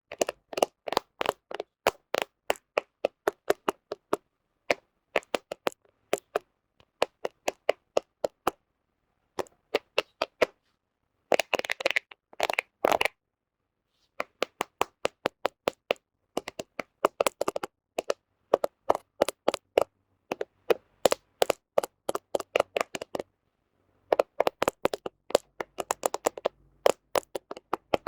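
Fingernails tapping quickly on a smartphone camera in runs of sharp clicks, several a second, broken by short pauses.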